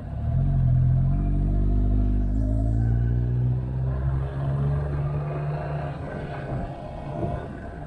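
Motorcycle engine pulling hard, its pitch climbing for a couple of seconds, then holding steady before it eases off and fades near the end.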